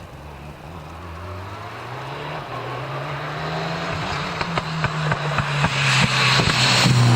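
A rally car approaching under power, its engine note climbing and growing louder, with sharp pops and cracks in the second half as it nears.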